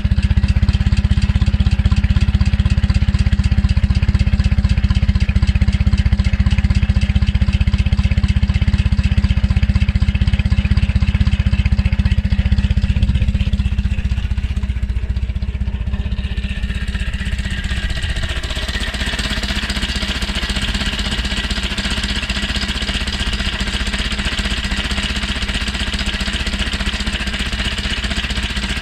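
Nimbus four-cylinder motorcycle engine running steadily. Past the middle the deep low sound gives way to a thinner, higher sound.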